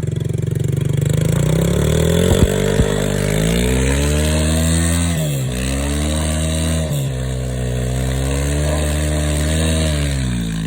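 Pitbike engine revving up from a pulsing idle and running hard as the bike is ridden, its pitch dropping sharply and climbing again twice, then easing off near the end. Two short sharp knocks come about two and a half seconds in.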